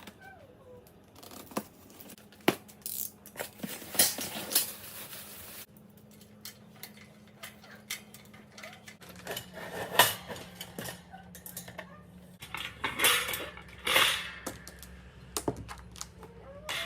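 Wrought iron bird cage parts clinking and clattering against each other while the cage is handled and assembled: irregular sharp metallic clicks, with a few louder clanks.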